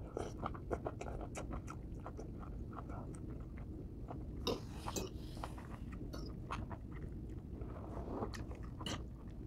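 Close-miked chewing of a mouthful of stir-fried bamboo shoots (adobong labong), with many small irregular mouth clicks and crunches.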